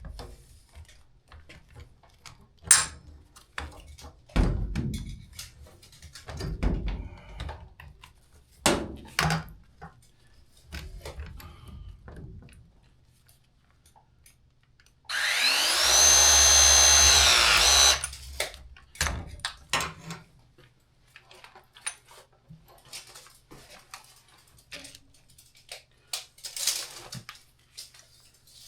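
Power drill running once for about three seconds midway, its motor whine rising, holding steady, then winding down. Scattered knocks and clicks of handling come before and after it.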